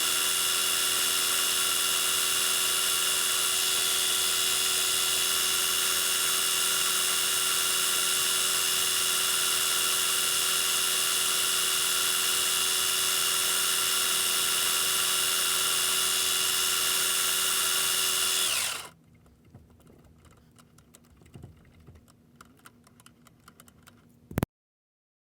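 Metal lathe running with a steady whine, then switched off and stopping abruptly about 19 seconds in. Afterwards there are faint small clicks and one sharp click just before the sound cuts out.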